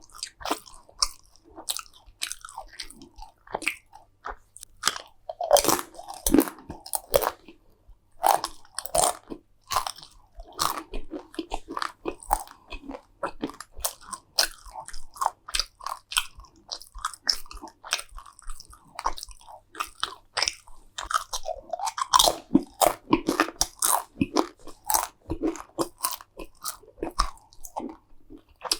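Close-miked eating of crunchy food: sharp, irregular crackling crunches of biting and chewing, with heavier bites about a fifth of the way in and again about three quarters through.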